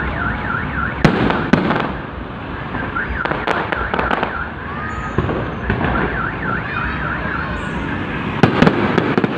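Fireworks bursting overhead, with sharp bangs at irregular intervals and a quick cluster of them near the end. Through several stretches a warbling, siren-like tone rises and falls over and over.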